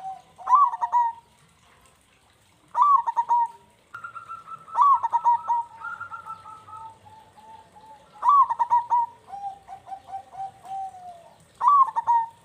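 Zebra dove (perkutut) singing its cooing song: short phrases of quick notes repeated about every three seconds, with a lower rolling trill of coos near the end.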